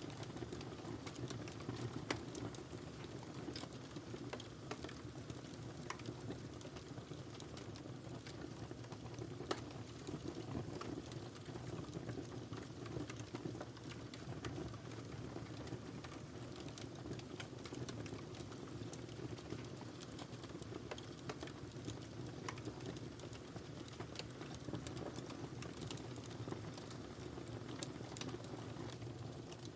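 Wood fire crackling, with irregular small pops and snaps over a steady low rush of flame.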